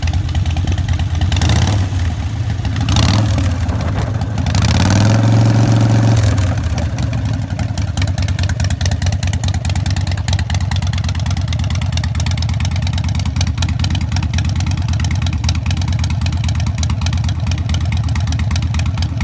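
Harley-Davidson Sportster 1200's air-cooled V-twin running through straight-shot pipes with Thunder Torque inserts set about halfway. It idles, gets two short throttle blips about a second and a half apart, then a longer rev of about two seconds, and drops back to a steady idle.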